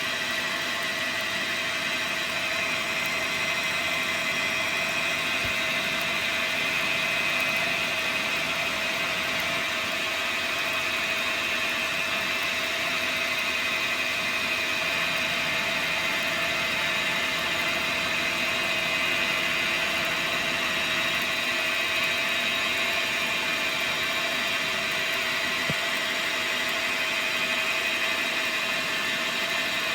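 Dyna Mechtronics DM3000 CNC lathe running while turning a part, a steady mechanical whine that holds evenly without a break.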